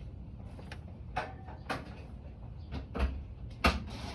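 Scattered plastic clicks and knocks, about six of them, from handling the filter section of a window air conditioner as it is fitted back on.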